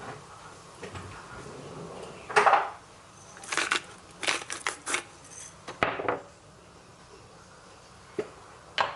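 Dishes and kitchen utensils being handled: irregular clinks, knocks and short scrapes, busiest in the middle.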